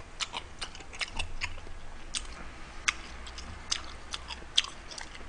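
A person chewing a mouthful of beef noodle soup close to the microphone: a string of irregular wet clicks and smacks from the mouth.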